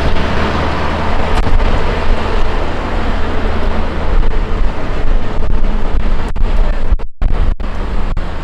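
Gusty wind buffeting the microphone, a heavy fluctuating rumble over street noise. The sound cuts out briefly twice about seven seconds in.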